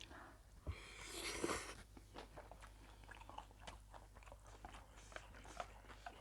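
Close-miked chewing of a spicy misua noodle and chicken-feet salad: steady wet clicks of chewing, with a short, louder hissing rush about a second in.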